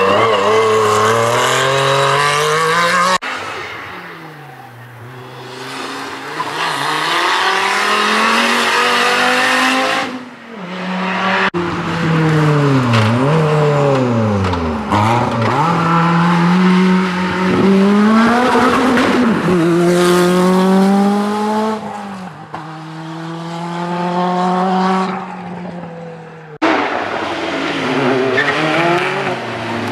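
Group B rally car engines at high revs, pitch climbing hard then dropping at each gear change or lift, in a run of short passages that cut abruptly from one to the next.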